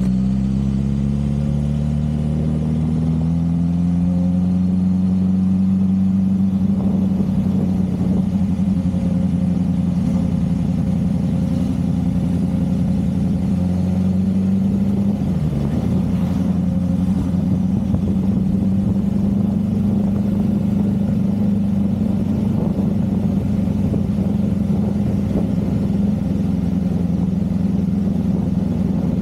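Motorcycle engine under way, rising in pitch over the first few seconds as it speeds up, then running steadily, with a brief dip in pitch about halfway through.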